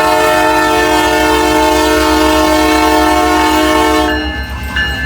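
Locomotive air horn blowing one long, steady multi-note chord that cuts off about four seconds in, over the low rumble of the passing train.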